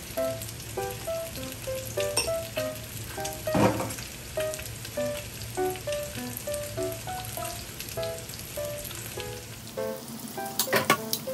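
Salmon steaks sizzling in oil in a frying pan, a steady frying hiss with sharper pops about four seconds in and several more near the end. Light background music of short plucked notes plays over it.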